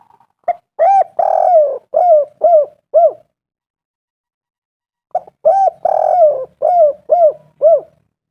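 Spotted dove cooing: two matching song phrases about two seconds apart. Each phrase is a short note and a drawn-out coo followed by three shorter arched coos.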